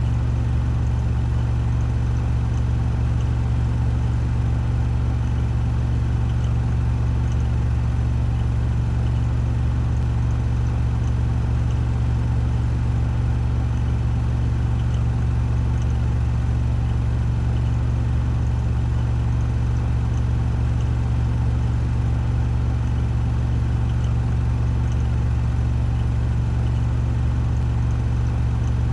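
Washing machine on its 1400 rpm spin cycle, the drum spinning at full speed with a steady, deep hum.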